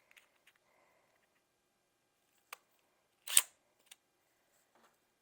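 A few light clicks and one sharp knock a little past the middle, with no power tool running: handling noise while a bookcase is being assembled.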